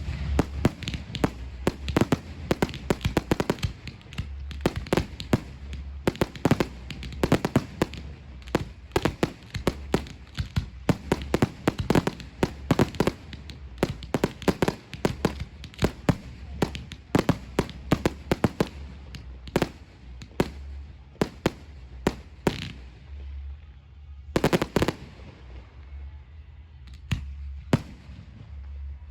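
Fireworks going off in rapid, overlapping bangs, several a second. They thin out after about twenty seconds, with a last short cluster of bangs about twenty-five seconds in.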